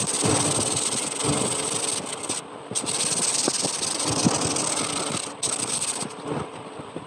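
A handheld electric power tool runs against wood with a steady high motor whine and rubbing, scraping contact. It stops briefly about two and a half seconds in, starts again, and stops near six seconds.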